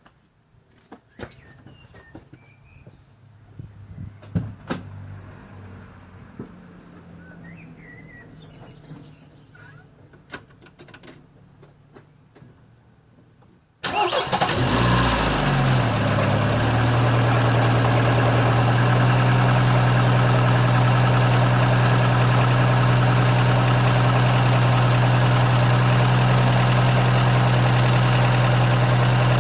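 Ford Fiesta Mk4's 1.3 Endura-E pushrod four-cylinder engine starting suddenly about halfway in after some faint clicks and knocks, its speed settling within a few seconds into a steady idle. The owner reports a valve clatter that returned shortly after the valve clearance was adjusted.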